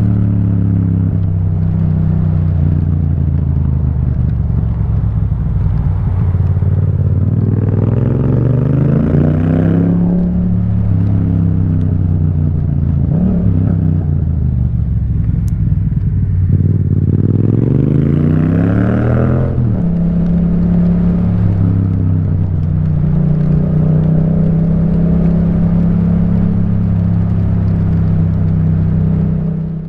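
Yamaha MT-07's parallel-twin engine through an Akrapovic titanium exhaust, riding along. The revs climb twice, each time falling back sharply, and the engine otherwise holds a steady note.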